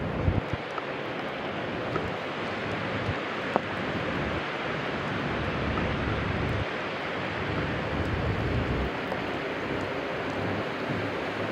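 Steady rushing noise of a downtown street in a snowstorm, with gusts of wind buffeting the microphone in uneven low surges.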